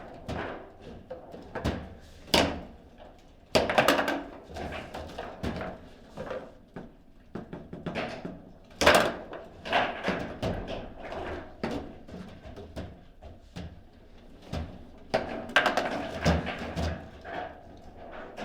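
Table football being played: a string of irregular clacks and knocks as the ball is struck by the players' figures and the rods knock against the table, with several sharper, louder hits.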